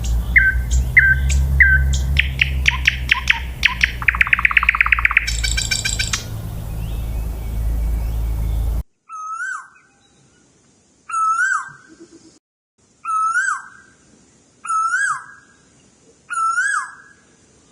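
Two bird recordings back to back. First a songbird's varied song over a steady low rumble: clear repeated notes that speed up into a fast trill, then a brief very high trill. After a cut, a different bird gives a single call five times, about every two seconds, each a short note that rises and then falls.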